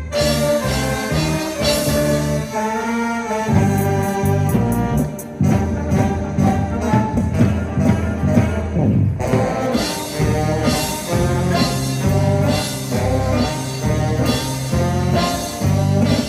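Live band music with brass instruments playing the melody over a steady bass and drum beat.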